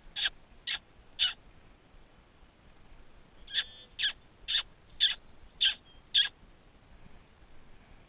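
A wild bird giving short, harsh calls: three in quick succession, a pause of about two seconds, then six more at about two a second.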